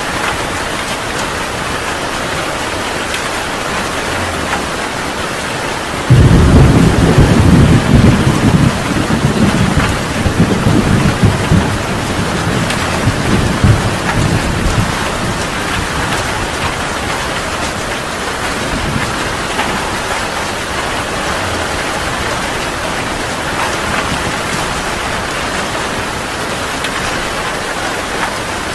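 Heavy rain falling steadily in an even hiss. About six seconds in, a sudden loud thunderclap breaks out and rumbles for several seconds before fading back under the rain.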